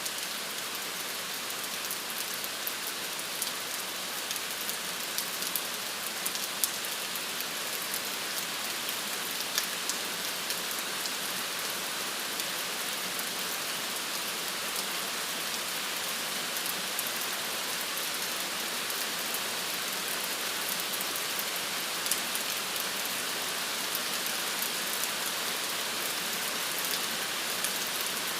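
Steady rain falling, an even hiss with scattered sharp drop ticks on a hard surface.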